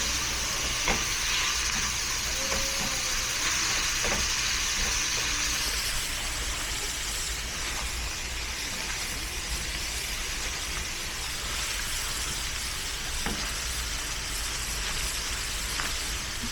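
Beef sizzling and frying in a pan, a steady hiss with a few light clicks. The highest part of the hiss eases off about five seconds in.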